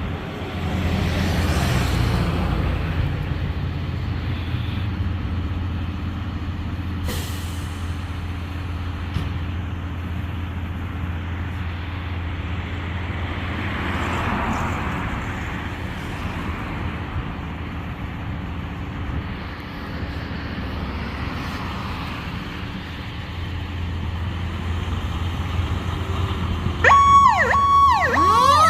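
Steady engine hum and road noise inside a moving emergency vehicle's cabin. Near the end an electronic emergency siren starts, sweeping up and down in pitch over a steady tone.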